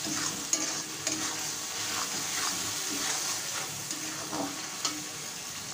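Ground onion, chilli, ginger and garlic paste with salt and turmeric sizzling in hot mustard oil in a metal karahi, stirred with a spatula that scrapes the pan at irregular intervals. The masala is being sautéed until the oil separates, the kosha stage of a Bengali curry.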